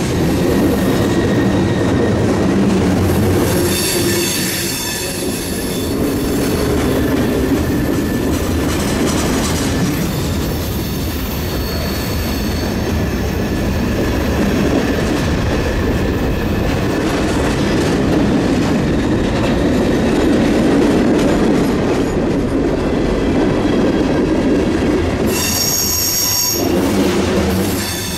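Freight cars of a CSX mixed freight train rolling past: a continuous loud rumble and clatter of steel wheels on the rail. A high-pitched wheel squeal cuts in around four seconds in and again near the end.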